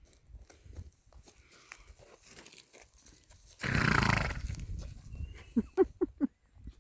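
A horse blowing a loud snort through its nostrils, lasting about a second, then a quick run of four short, low pulsed sounds near the end.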